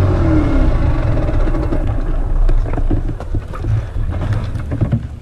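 Honda NSR125's single-cylinder two-stroke engine with its revs falling away in the first half-second, then running at low revs with an uneven, crackling beat as the bike rolls slowly, with wind on the microphone.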